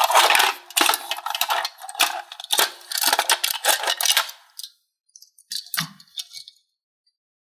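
Small hard toy pieces clattering and clicking rapidly as they are handled, thinning out about five seconds in to a few last clicks, then stopping.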